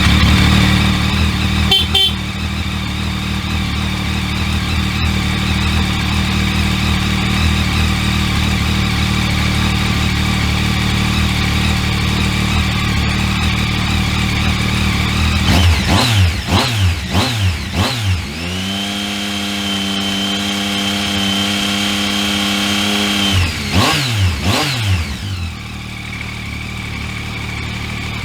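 Yamaha MT-09 Tracer's 847 cc inline three-cylinder engine idling, then revved a few times. It is held at a steady higher speed for about five seconds, blipped again, and settles back to idle.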